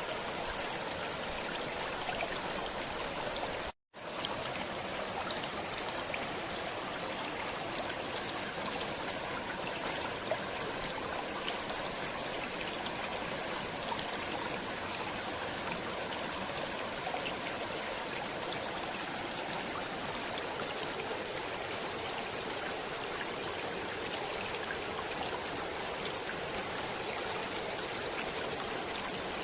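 Stream water running steadily, with one brief dropout about four seconds in.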